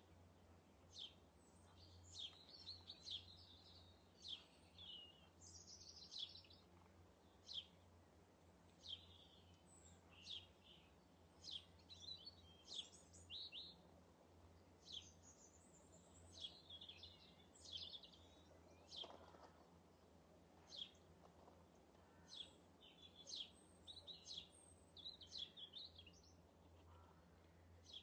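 Small garden birds at a feeder giving many short, high chirps and quick twittering calls, one after another, over a faint steady low hum.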